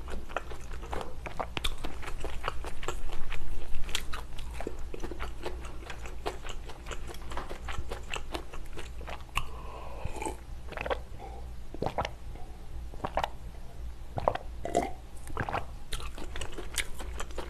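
Close-miked mouth sounds of eating shrimp noodle soup: chewing and swallowing with small wet clicks, then swallows of a drink about halfway through.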